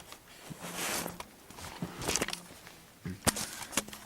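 Toy vehicle models being handled: soft rustling and scraping, then two sharp clicks as they are knocked or set down near the end.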